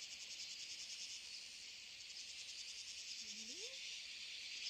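Steady insect chorus with a fast, even pulsing. A single short rising call sounds about three seconds in.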